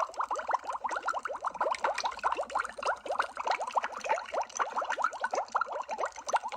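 Underwater bubbling sound effect: a continuous stream of small bubbles, each a quick rising bloop, many overlapping every second without a break.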